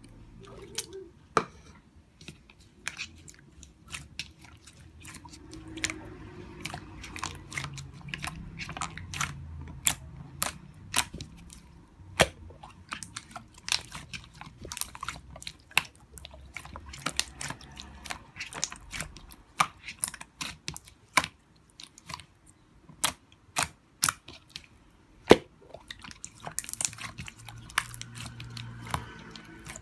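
Crunchy food being bitten and chewed close to the microphone: many sharp, irregular crunches, several a second.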